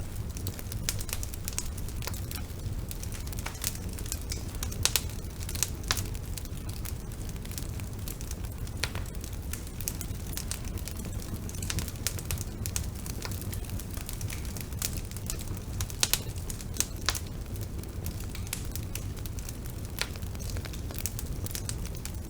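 Bonfire burning with a steady low rumble and irregular sharp crackles and pops of burning wood.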